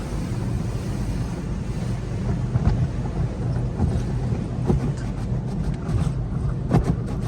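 Automatic car wash heard from inside the car: a steady rumble and spray of water and wash machinery against the body, with a few knocks.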